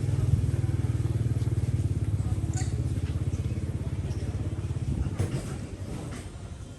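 A motor vehicle engine running with a steady low pulsing rumble, fading away over the last couple of seconds.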